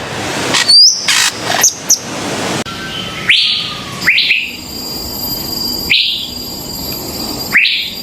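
Bird calls: a varied run of whistles and rougher notes, then, after an abrupt cut about two and a half seconds in, four short rising call notes a second or two apart.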